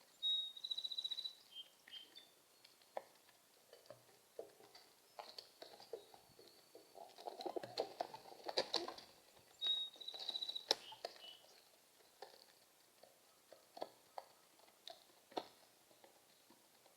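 A bird gives two high, drawn-out chirps about nine seconds apart, each trailing off into shorter notes. Light taps and rustling come in between, thickest around the middle.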